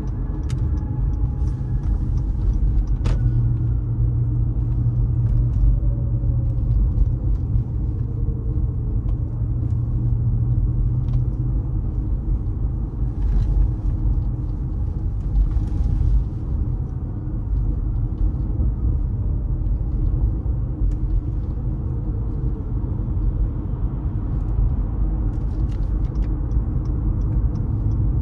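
Car driving through city streets: a steady low rumble of engine and tyre noise. For several seconds early on a low drone sits over it.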